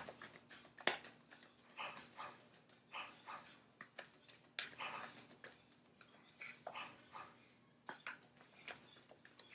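A dog barking faintly in a string of short, irregularly spaced barks.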